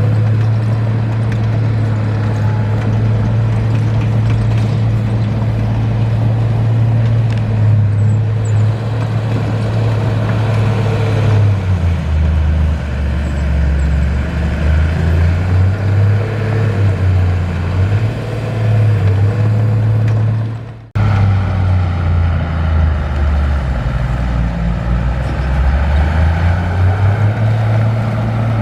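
Heavy diesel engine of an earthmoving machine running loudly. Its note holds steady at first, then drops and rises several times through the second half. The sound cuts out abruptly for a moment about three quarters of the way through.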